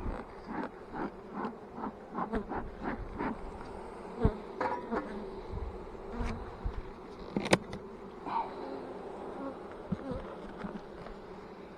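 Honeybees buzzing steadily around an opened hive, with scattered short knocks and clicks, two of them sharper about four and seven and a half seconds in.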